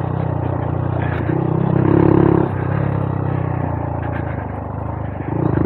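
Honda Monkey 125's single-cylinder four-stroke engine running steadily under way, revving up briefly about two seconds in and again near the end.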